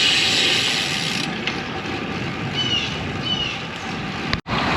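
Steady wind and road noise of a moving bicycle, with two short high chirps a little under a second apart midway. The sound cuts out for an instant near the end.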